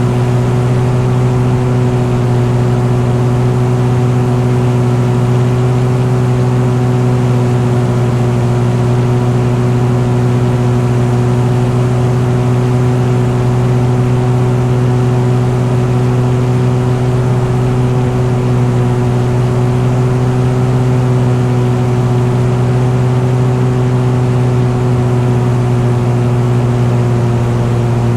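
Light aircraft's piston engine running steadily at one constant speed, a loud unchanging low hum with a strong low tone and its overtones over a hiss of air noise.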